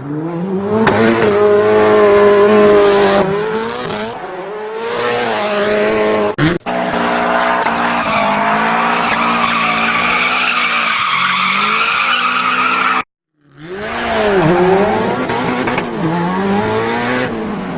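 A dog making long, drawn-out howling vocal calls whose pitch wavers and swoops up and down. They break off briefly about a third of the way in and stop abruptly for a moment near the two-thirds mark before starting again.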